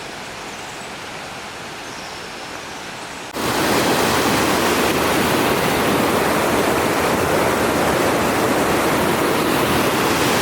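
Steady rush of running mountain water, a stream or waterfall, that jumps abruptly much louder about three seconds in and stays loud.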